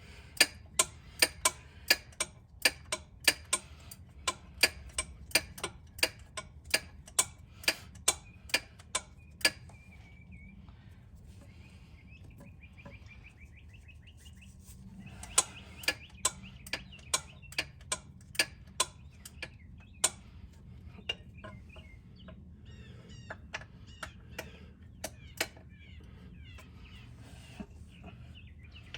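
Runs of sharp clicks, about two to three a second, stopping for a few seconds and then starting again, with birds chirping between the runs.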